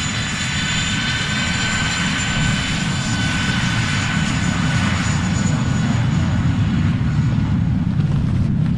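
A steady engine drone: a low rumble with a thin, high, even whine above it.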